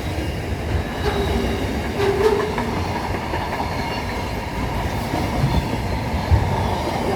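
Pacific National freight train rolling past on standard gauge track: a steady rumble with wheels clattering over the rail joints and a faint wheel squeal about two seconds in.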